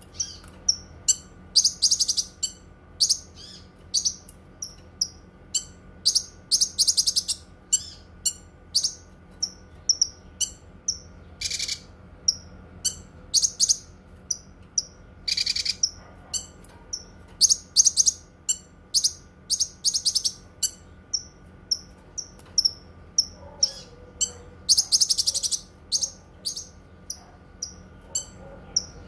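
Cucak kinoi songbird singing: a rapid, unbroken run of short high chirps mixed with longer trilled phrases and a couple of sweeping calls. A faint steady hum sits under the song.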